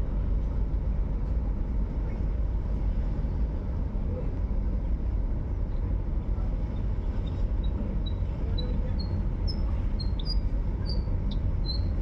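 Steady low engine rumble, with a run of short high chirps about twice a second from about seven seconds in.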